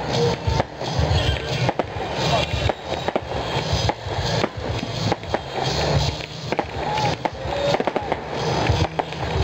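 Fireworks barrage: many rapid, irregular pops and bangs overlapping as a volley of comets and rockets is launched.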